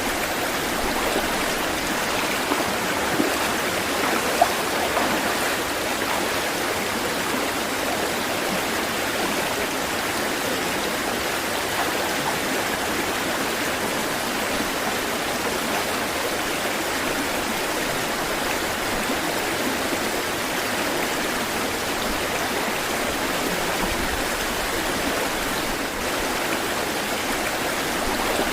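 Flowing water rushing steadily, like a stream or small cascade, with a couple of brief louder splashes a few seconds in.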